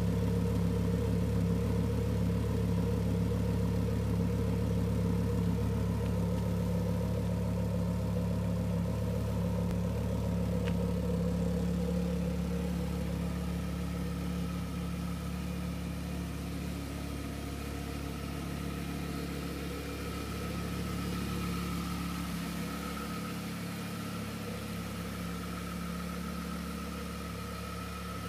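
Audi RS6 with an MTM tune, its twin-turbo V10 idling steadily with no revs. The idle is loudest near the quad exhaust tips, a little quieter from the side and front, and a thin steady whine comes in over it later on.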